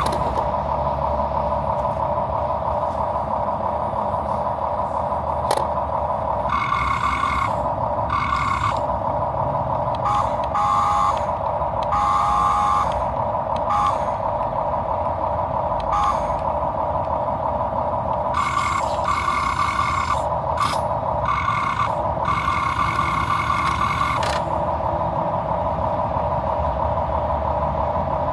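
Small electric motors of an RC boom truck whining steadily, with several louder stretches of a few seconds each as the motors work harder.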